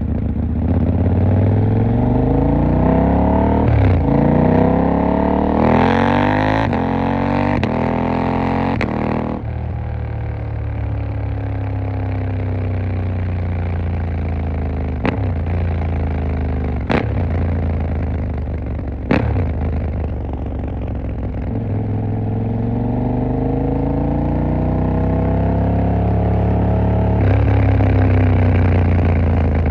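KTM 890 Duke R's parallel-twin engine pulling hard up through the gears, its pitch rising in steps with short dips at each shift. About nine seconds in the throttle closes and the engine speed falls away for some ten seconds, with three sharp cracks about two seconds apart, before it picks up and accelerates again near the end.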